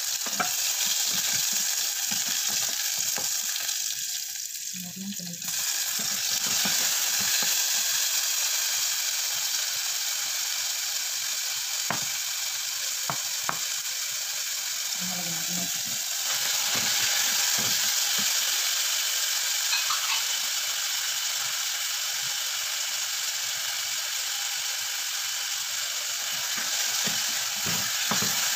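Chopped garlic, onion and tomato sizzling as they sauté in hot oil in a pot, with a wooden spatula scraping and clicking against the pan as it is stirred.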